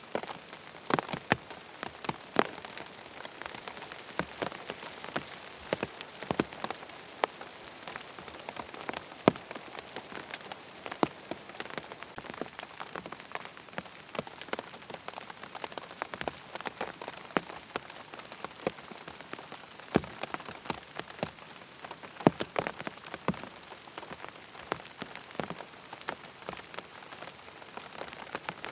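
Steady rain falling, an even hiss dotted with frequent sharp, irregular clicks.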